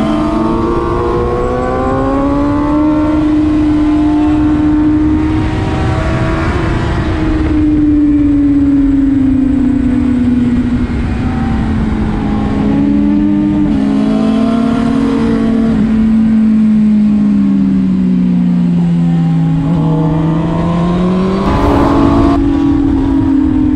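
Suzuki GSX-R750's inline-four engine pulling at high revs, heard from on the bike, its pitch sinking and rising as the throttle comes off and back on through the bends. A sudden jump in pitch comes about 22 seconds in, and wind rushes over the microphone in a few stretches.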